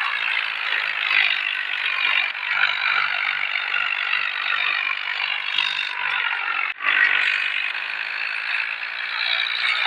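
Ford tractor running with a rotavator, a steady rattling, clattering machine noise, broken by a brief drop-out about seven seconds in.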